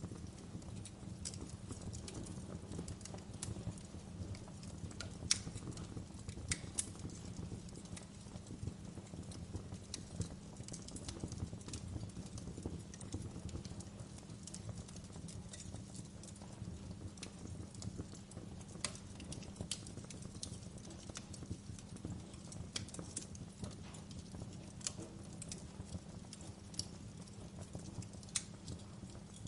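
Fire crackling, with irregular sharp pops and snaps over a low, steady rumble of flames; the loudest pops come about five and seven seconds in.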